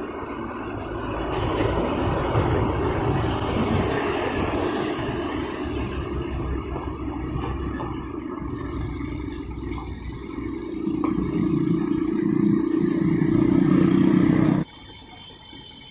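A truck running on the road: engine rumble and tyre noise. The engine hum swells louder from about eleven seconds in, then the sound cuts off abruptly near the end.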